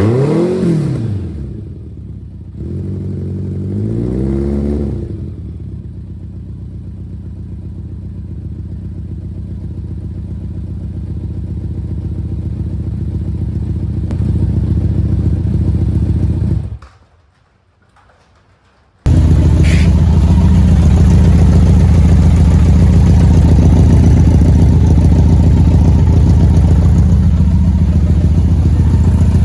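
1991 BMW K1 motorcycle's inline-four engine through a full aftermarket exhaust, blipped twice in quick revs near the start and then idling steadily. After a brief break about two-thirds through, it idles again noticeably louder.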